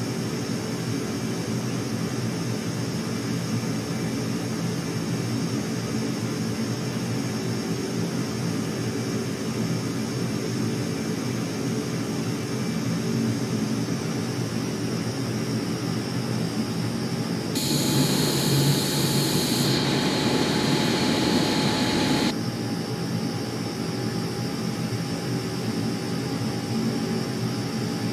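Jet aircraft engines running steadily with a constant whine. For about four seconds in the latter part, a louder, rougher rush of engine noise starts and stops abruptly.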